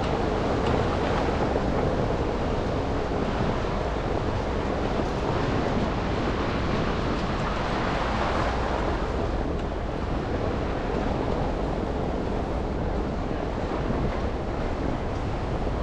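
City traffic noise from a moving car: a steady hiss of tyres on wet, slushy pavement with engine and street rumble, swelling briefly about eight seconds in.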